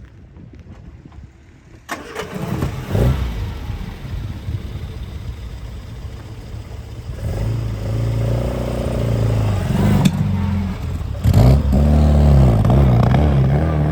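The Sebring Sprite's 1275cc 'fast road' four-cylinder engine, breathing through a 40DCOE Weber carburettor, starts about two seconds in and is revved, its pitch rising and falling. It gets louder toward the end, with a sharp click just before the loudest part.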